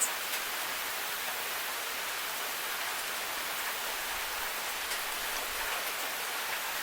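Steady rain falling, an even hiss with a few sharp drop ticks; one louder tick comes right at the start.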